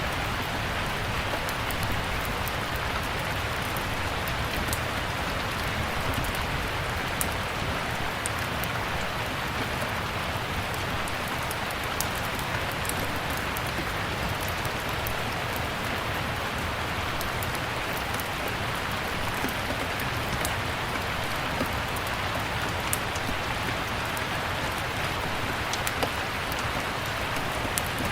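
Steady rain, with many small sharp pops and crackles from a wood fire in a fireplace scattered through it.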